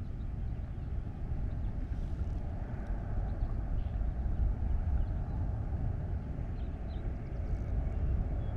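Outdoor street ambience: a steady low rumble with faint bird chirps above it.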